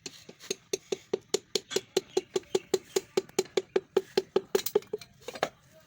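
A rapid, even run of sharp clicks or taps, about five a second, each with a short ringing note. It stops about five seconds in.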